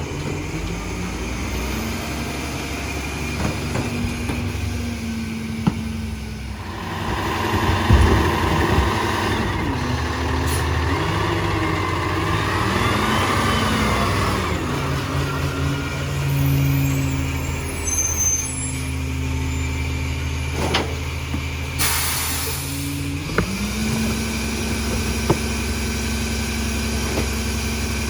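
Rear-load garbage truck's diesel engine running, stepping up to a higher steady speed near the start and again near the end. In the middle there is a busy stretch of grinding noise with a whine that rises and falls, and a short air hiss comes about 22 seconds in.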